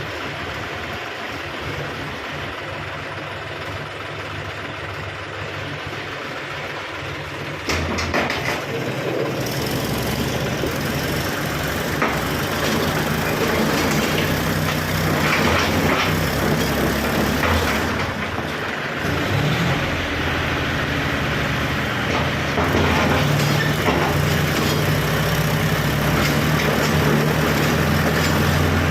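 Tractor engine running steadily, getting louder about eight seconds in and staying loud, with scattered knocks and clatter over the following ten seconds.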